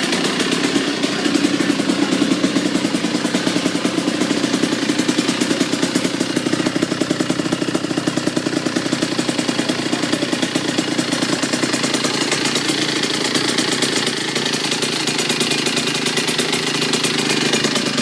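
Kawasaki KX85's 85cc two-stroke single-cylinder engine, breathing through a full FMF exhaust, idling steadily with a fast, even popping beat shortly after a cold start.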